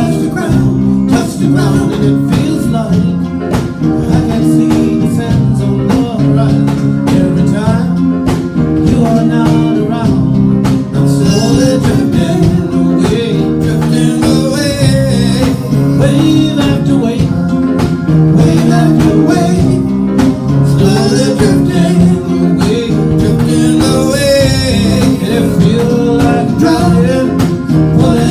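A band playing a song: guitar strumming with singing over it.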